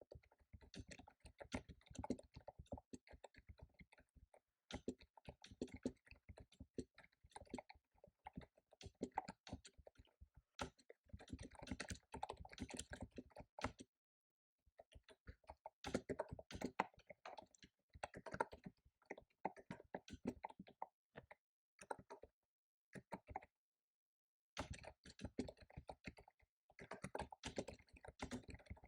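Computer keyboard typing in fast runs of keystrokes, broken now and then by short pauses, the longest about a second.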